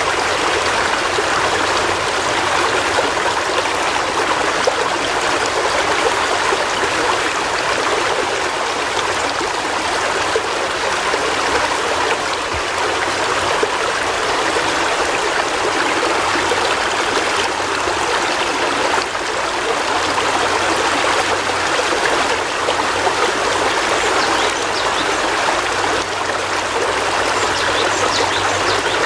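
A river flowing, a steady rush and babble of running water.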